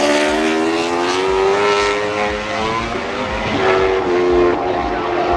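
MotoGP racing motorcycles at high revs, the engine note climbing steadily in pitch as they accelerate; a second bike's note cuts in about three and a half seconds in.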